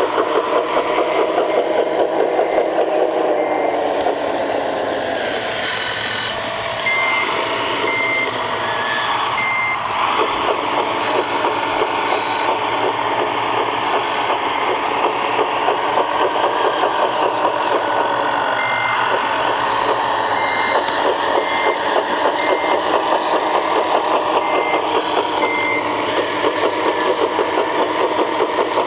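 Electric drive and gearbox of a 1/14-scale RC construction model running steadily with a fast, pulsing whir. A short reversing-alarm beep sounds about once a second, in one short run about a quarter of the way in and a longer run about two-thirds of the way in.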